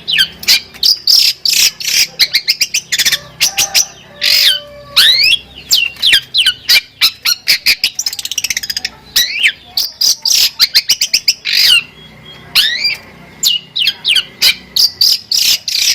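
Long-tailed shrike (cendet) singing a fast, varied song of sharp notes and quick downward-sweeping whistles, with a rapid trill about eight seconds in. The song is a 'full isian' song, packed with mimicked phrases of other birds.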